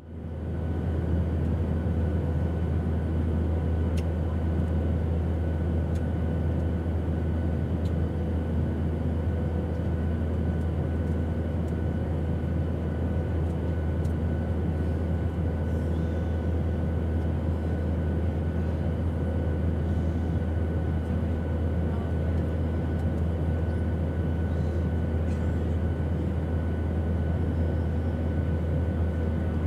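Airplane engine drone: a steady, even noise with a strong deep hum and faint steady whining tones above it. It fades in over about the first second, then holds constant.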